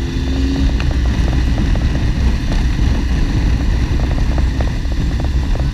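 Motorcycle on the move: steady engine drone under heavy wind rumble on a helmet-mounted microphone.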